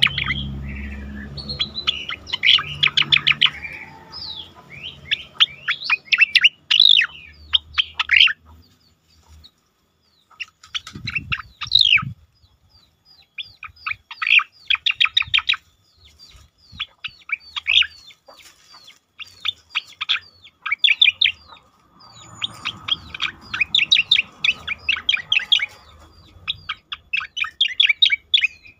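Cucak koreng songbird singing rolls of quick, sharp whistled notes in phrases of one to two seconds, broken by short pauses.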